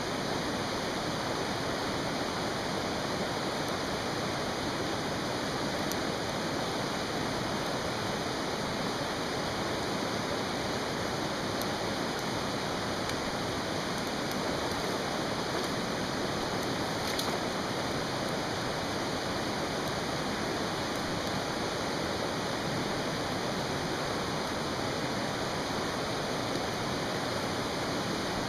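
Mountain stream rushing steadily, with a few faint pops from a campfire now and then.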